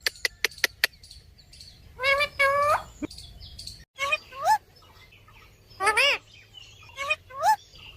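Parrot calling in short pitched squawks that rise in pitch, in about four bouts a second or two apart, after a quick run of sharp clicks near the start.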